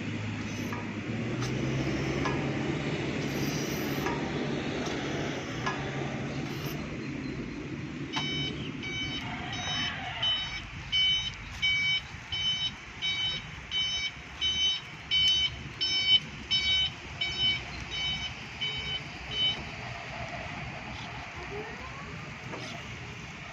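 Electric reach truck running with a low electric motor hum, then its warning alarm beeping steadily, about one and a half beeps a second, for around eleven seconds before stopping.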